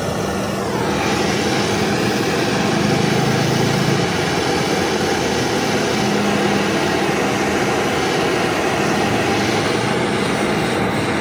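A loud, steady machine noise runs without a break, with a brief falling whine in the first second.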